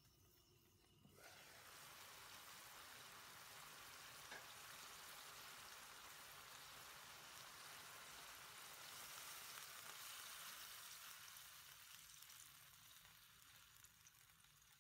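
Pork and onion frying in a hot wok: a sizzle that starts abruptly about a second in as the lid comes off, swells around the middle as water is poured into the pan, then fades a little near the end.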